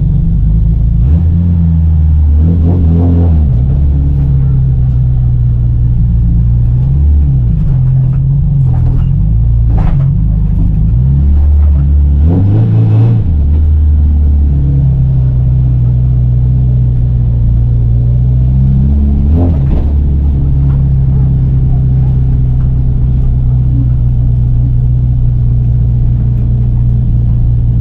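Volvo Amazon 121 race car's four-cylinder engine heard from on board, running hard under load. The engine note dips and picks up again about four times, around 3, 8, 13 and 20 seconds in.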